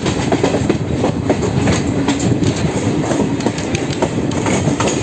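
Train running along the track: a steady rumble from the wheels, with many irregular sharp clicks and knocks from the rails.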